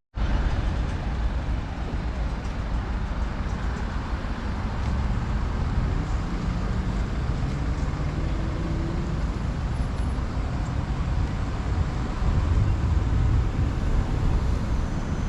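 Steady city street traffic: passing cars and buses with a continuous low rumble.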